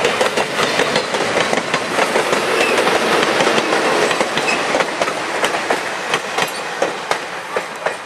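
Train pulled by Southern Pacific steam locomotive 4449 rolling past, its wheels clicking over the rail joints. It fades gradually over the last few seconds.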